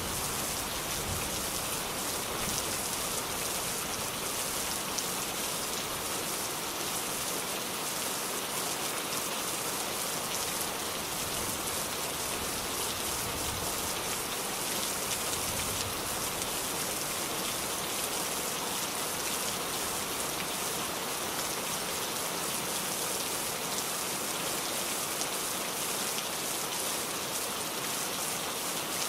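Steady rain falling, an even hiss of many fine drops on a surface.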